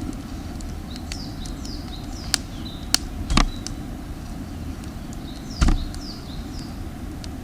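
Sharp pops and snaps, five or so, the loudest about three and a half and five and a half seconds in, over a steady low rumble, typical of a campfire burning damp firewood. Small birds chirp in short falling notes throughout.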